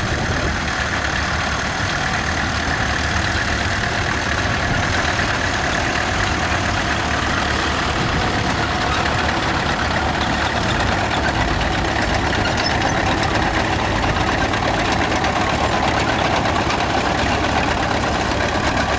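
Vintage farm tractor engines running steadily at low speed.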